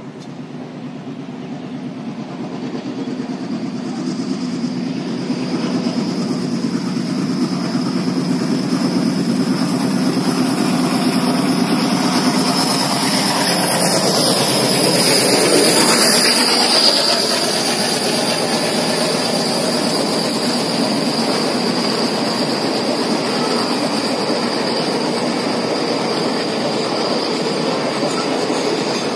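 Diesel-hauled express passenger train running through at speed. The locomotive's engine chugs as it approaches, getting steadily louder, and is loudest as it passes about halfway through. Then the coaches rumble by, their wheels clicking over the rail joints, with a steady high-pitched whine on top.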